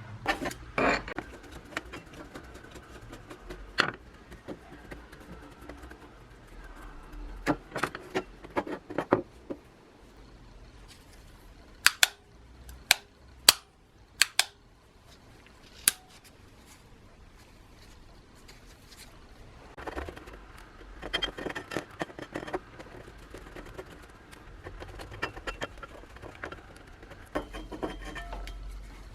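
Small metal parts and tools clinking, tapping and rattling as they are handled, with a run of single sharp clicks in the middle and busier rattling later on.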